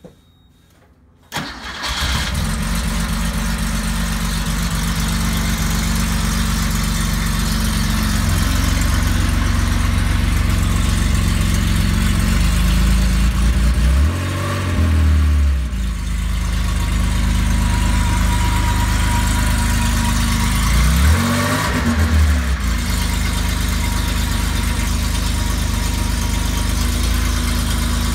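1972 Porsche 911E's air-cooled flat-six starting from cold about a second in, catching almost at once, then running at a steady fast idle held up by the hand throttle. The revs rise and fall twice, around the middle and again about two-thirds of the way through.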